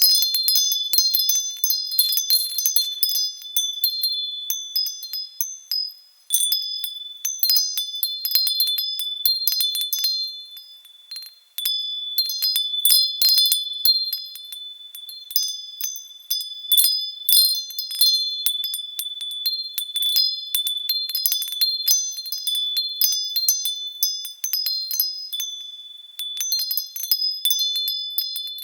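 Wind chimes ringing high and bright, their tubes struck irregularly and often by the wind. The ringing thins to brief lulls about six and eleven seconds in.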